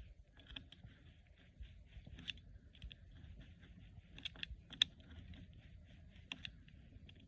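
Faint, irregular clicking and tapping of small hard parts being handled, with a few sharper clicks scattered through, the loudest about five seconds in.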